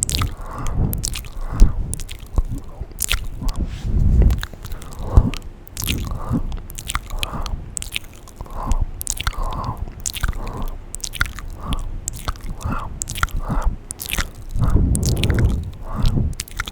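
ASMR mouth sounds, close-miked at high sensitivity: a quick, irregular run of wet clicks, smacks and tongue sounds, with a few fuller, lower swells in between.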